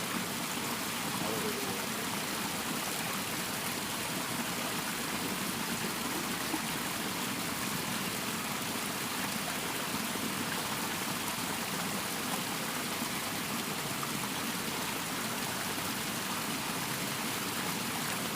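Steady rush of water flowing in a small ditch.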